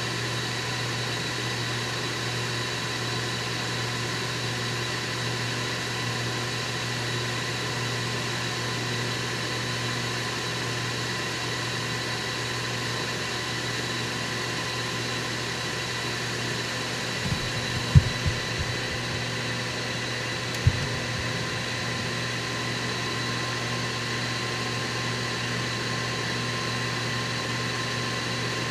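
Ninja Foodi Grill running with its fan on: a steady hum and whine with several fixed tones. A few dull thumps come about two thirds of the way through.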